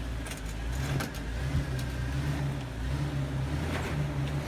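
A vehicle's engine running, its low note steady and swelling slightly in places.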